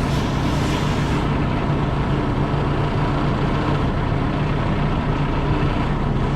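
Semi truck's diesel engine running steadily at low speed while reversing with a trailer, heard from inside the cab. A brief hiss comes in at the start and fades out after about a second.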